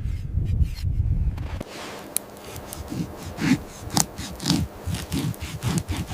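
A loud low rumble cuts off abruptly about a second and a half in. Then comes a run of crunching sounds, about two a second.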